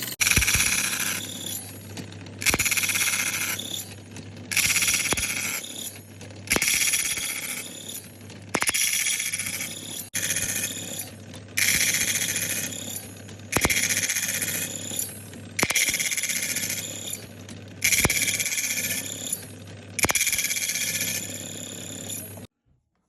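Power tool with a steady motor hum working animal horn in repeated passes, about one every two seconds: each pass begins sharply with a high, hissing cut that fades away. The sound stops abruptly near the end.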